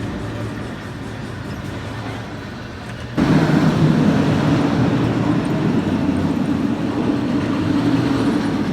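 Roller coaster train running on its track: a steady rush of wind and rumble, jumping suddenly louder with a heavier rumble about three seconds in.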